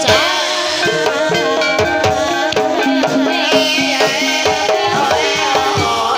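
Javanese gamelan music accompanying an ebeg (kuda kepang) horse dance. It has repeated hand-drum strokes, ringing struck-metal tones and a melody line that glides up and down.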